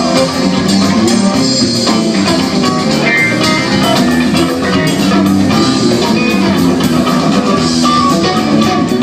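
Live rock band playing, with guitar over a steady drum beat.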